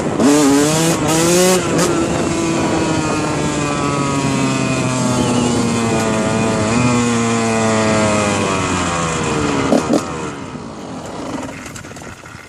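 Dirt bike engine revving up sharply, then holding a long, slowly falling note, revving up again about seven seconds in, and dying away over the last couple of seconds.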